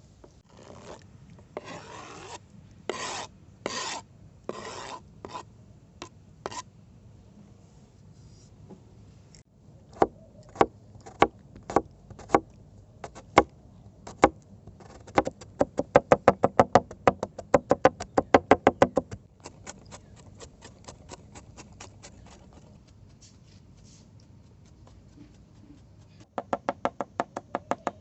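Food being prepared by hand: a few rasping strokes like grating, then a knife knocking on a wooden board, slowly at first and then in quick runs of about six strokes a second.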